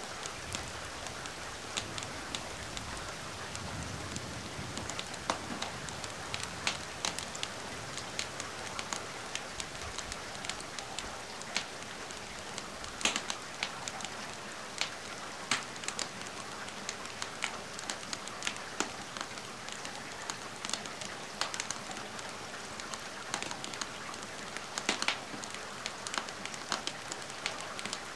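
Steady rain hiss with a wood fire crackling in a fireplace, sharp irregular pops and snaps scattered over the rain.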